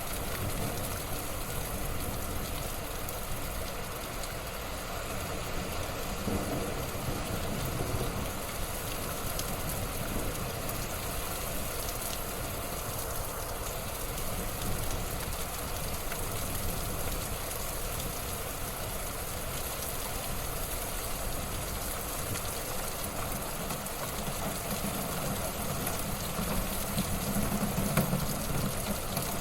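Wood fire burning in a fireplace: a steady rush of flames with small scattered crackles.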